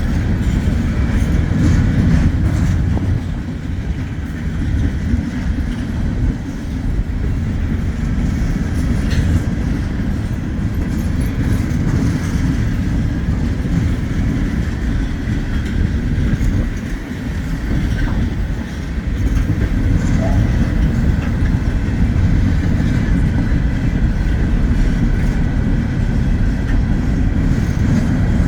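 Wheeling & Lake Erie freight train rolling past, a steady heavy rumble of car wheels on the rails.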